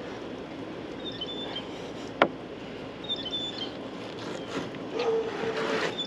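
Two short, high bird chirps, a single sharp knock about two seconds in, and a dog whining near the end, over steady outdoor background noise.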